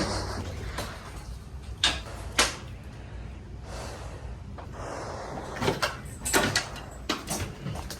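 Ceiling demolition: sharp knocks and crashes as material is struck and falls, two loud hits about two seconds in and a quick cluster of bangs in the second half, over a steady low background rumble.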